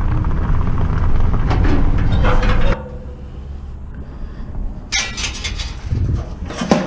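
Steady vehicle running noise that cuts off suddenly a little under three seconds in, followed by a few sharp clunks and rattles of metal or a door.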